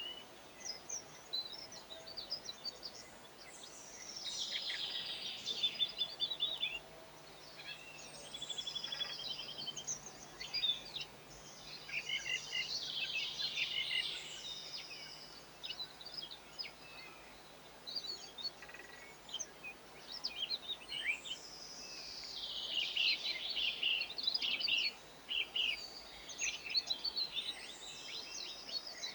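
Garden songbirds singing: busy, high-pitched twittering phrases and trills, one after another with short pauses between them.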